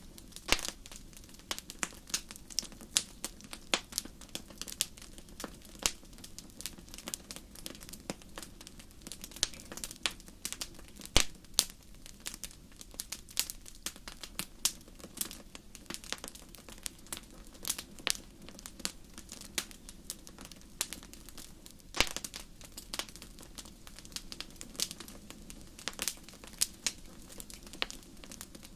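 Wood fire crackling in a fireplace: a steady stream of irregular sharp pops and snaps over a low hiss, with a few louder pops, one about eleven seconds in and another about twenty-two seconds in.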